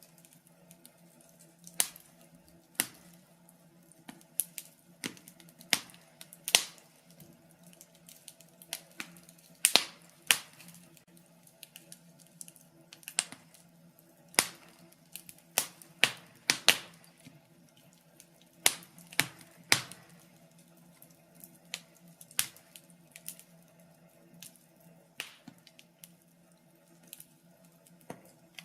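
Wood fire in a fireplace crackling: irregular sharp pops and snaps, some much louder than others, coming a few a second with short lulls, over a faint low steady hum.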